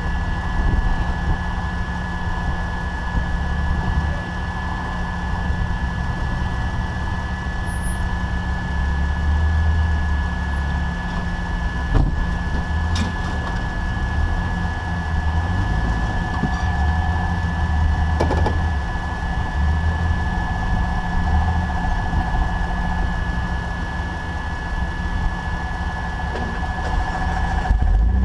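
Jeep 4x4's engine running at low revs with a steady high whine, the rumble swelling and easing as it crawls. One sharp knock about twelve seconds in.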